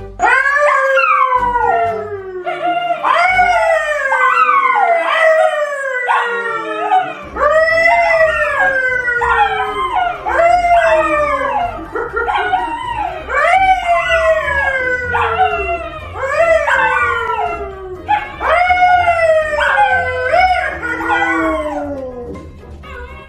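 Dog howling over and over in short calls, one or two a second, each sliding down in pitch; the howls fade near the end.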